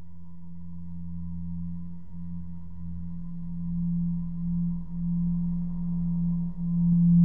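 Low, steady humming drone with a faint thin high tone above it, slowly swelling in loudness toward the end. It is a synthesized 'space sound' presented as the sound of Uranus's rings.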